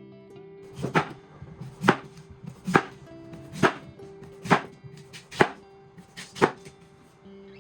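Knife chopping on a cutting board: seven slow, even strokes, about one a second.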